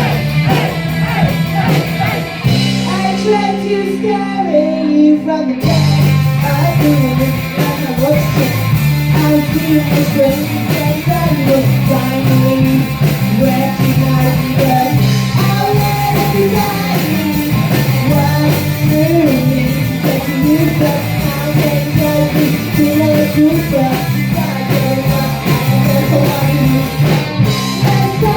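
Live rock band playing, with electric guitar, bass, drums and a singer, heard loud through a phone-style recording in a small hall. About two and a half seconds in the band drops to a held chord for a few seconds, then comes back in fully.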